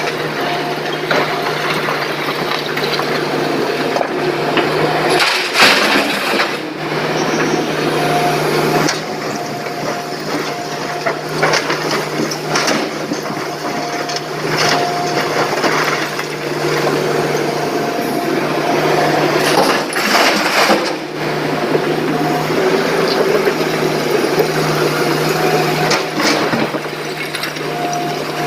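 SANY excavator's diesel engine running steadily under load, with an on-and-off hydraulic whine as it works. Twice, about five seconds in and again near twenty seconds, a louder burst of rattling noise.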